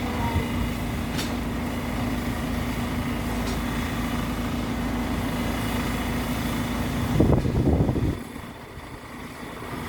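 Heavy diesel engine of site plant running steadily at one constant pitch. A louder burst comes about seven seconds in, then the sound drops away abruptly and returns near the end.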